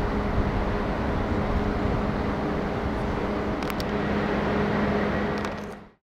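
Train running, a steady rumble with a low hum through it and a few sharp clicks about three and a half seconds in; the sound fades out just before the end.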